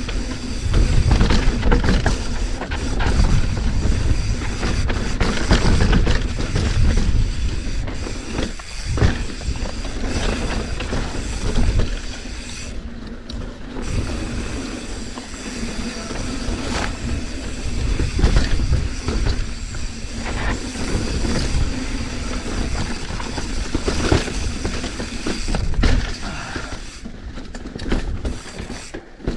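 Commencal mountain bike riding fast down a dirt trail: wind rumbles on the rider's camera mic while the tyres crunch over the ground and the chain and frame rattle and clatter over bumps.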